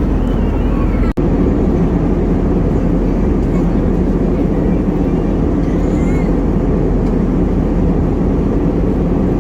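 Steady cabin noise of a jet airliner in flight, with a brief dropout about a second in.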